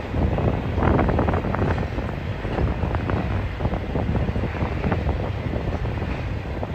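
Train rolling past, wheels clattering and rattling over the rail joints in a steady rumble, with wind buffeting the microphone.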